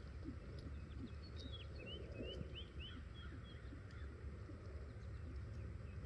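A small bird chirping a quick run of short notes, most of them about two seconds in, over a steady low outdoor rumble. Faint soft thuds come from a horse's hooves walking in arena sand.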